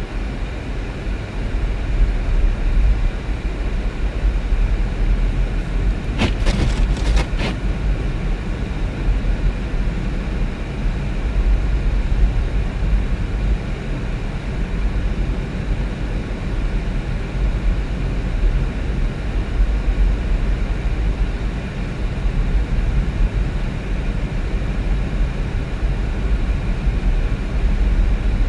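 Vehicle driving: a steady low rumble of engine and road noise, with a brief cluster of clicks about six to seven seconds in.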